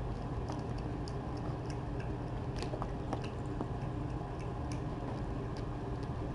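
A cat chewing food: small, irregular crunching clicks over a steady low hum.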